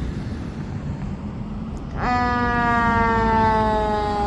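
Fire engine siren cutting in suddenly about two seconds in and holding one tone that slowly falls in pitch, over the low rumble of the truck's engine.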